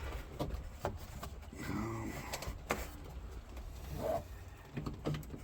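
Scattered light clicks, taps and rubbing as a glove box stop is handled and worked into place on a car dashboard, with a brief low murmur of a voice around the middle.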